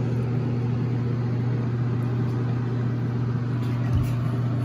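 Steady low hum of a running motor, with a brief low thump near the end.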